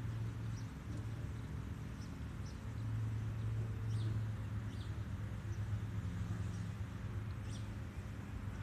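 Outdoor ambience: a steady low hum, with small birds chirping briefly here and there.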